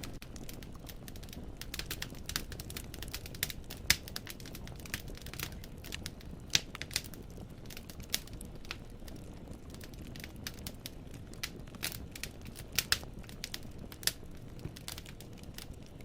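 Firewood burning in a fireplace, crackling and popping irregularly over a low steady rumble of flames, with a few sharper, louder pops about four seconds in, midway, and near the end.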